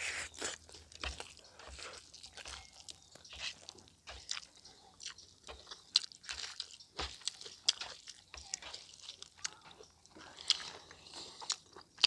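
A person chewing and biting food right at the microphone: irregular wet smacks and crunchy clicks of a mouthful of pork fat and vegetables being eaten.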